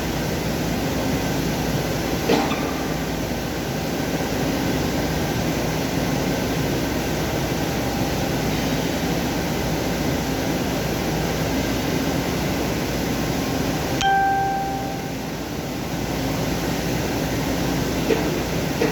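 Steady whir and hum of machinery running, consistent with CNC machining equipment. About two seconds in there is a click, and at about 14 seconds a short beep, after which the noise briefly drops.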